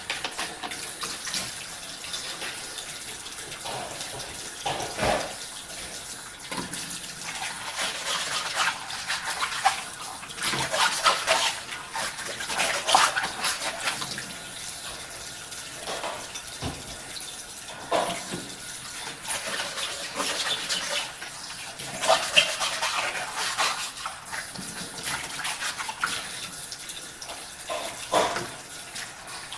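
Tap water running into a sink while dishes are washed by hand, with scattered clinks and knocks of dishes and utensils, the loudest clusters about a third of the way in and again past the middle.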